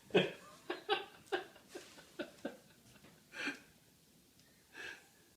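A person laughing in a quick run of short 'ha' bursts over the first couple of seconds, then two more single bursts.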